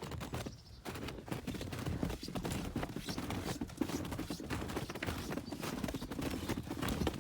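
Footsteps crunching through deep snow, a steady crackle of packed snow giving underfoot.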